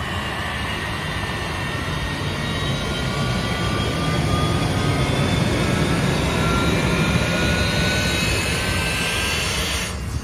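Jet-engine track dryer running, a loud rumble with a turbine whine that slowly rises in pitch as it blows hot air over the wet drag strip to dry it.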